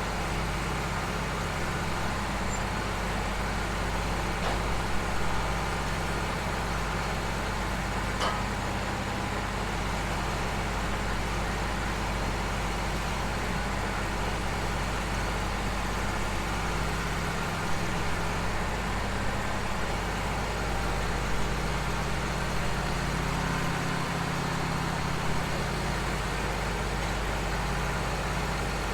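Engine running steadily at an even, low speed.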